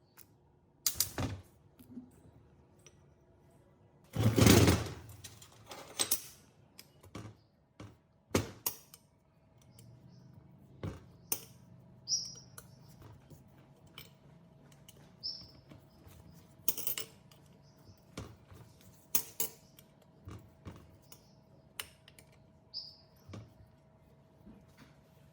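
Irregular sharp clicks and taps of metal parts and hand tools being handled during work on a high-pressure car washer, with one louder, longer clatter about four seconds in. A faint low hum comes in about ten seconds in.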